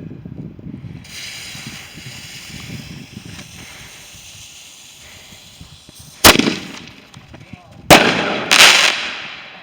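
A firework fizzing for a few seconds, then three loud bangs: two sharp cracks about a second and a half apart, and a longer crackling burst just after the second, fading away.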